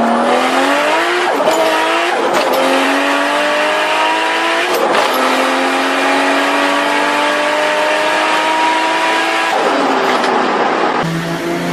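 Turbocharged Toyota Supra straight-six accelerating hard: three quick upshifts in the first five seconds, each gear pulling longer, then a long pull with the pitch climbing steadily before the driver lifts off near the end.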